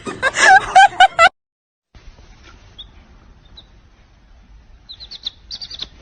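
Bird calls: a quick run of loud, wavering, pitched calls in the first second or so that stops abruptly, then a few faint high chirps near the end.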